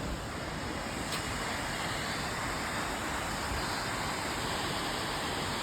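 Waterfall rushing: a steady, even wash of falling water that starts abruptly and holds at one level.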